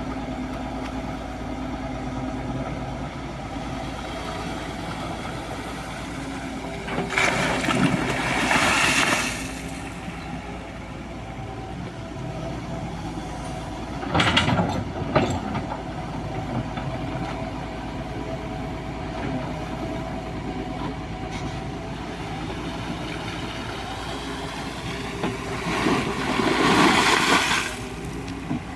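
Excavator's diesel engine running steadily, with two louder, noisier stretches of a few seconds each and a short clatter about halfway through.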